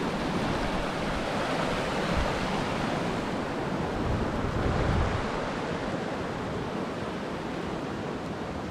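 Rushing river water, a steady, even noise.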